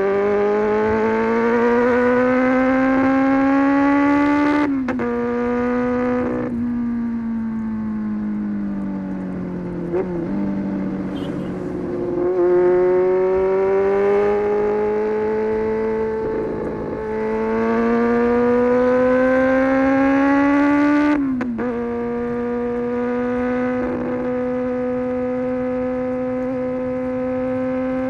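Honda CB400 Super Four's inline-four engine through an SC Project exhaust, revving up under acceleration. The pitch climbs, then breaks and drops sharply at each gear change, about five and six and a half seconds in and again around twenty-one seconds. In between it eases off and builds again, and it holds a steady cruise near the end.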